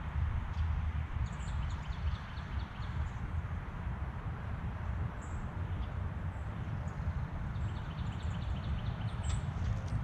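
Faint, short high chirps of small songbirds scattered through, with one sharper chirp near the end, over a low, fluctuating outdoor rumble.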